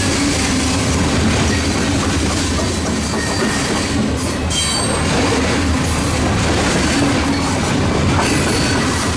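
Freight cars (covered hoppers) rolling past: a steady rumble and clatter of steel wheels on the rail, with a brief high wheel squeal about four and a half seconds in.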